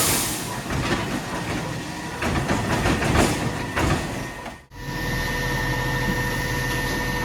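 Mack LR garbage truck with a Labrie Automizer body at work: irregular clattering and hissing for the first few seconds. After a brief drop-out, a steady engine drone.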